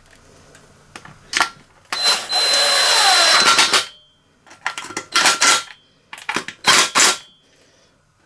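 Power drill-driver with a T27 bit running screws in, in three bursts: a longer run of about two seconds, then two shorter ones. The screws are driven in but not fully tightened.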